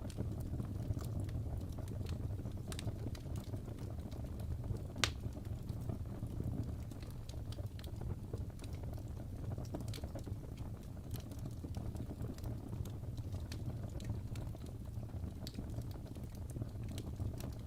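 Wood fire in a fireplace crackling: a steady low rumble of flames with irregular sharp pops and snaps from the burning logs, one louder pop about five seconds in.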